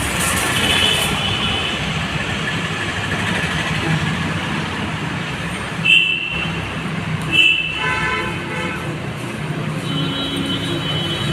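Busy road traffic running steadily, with vehicle horns honking several times: briefly near the start, twice in quick succession about six and seven and a half seconds in, and again near the end.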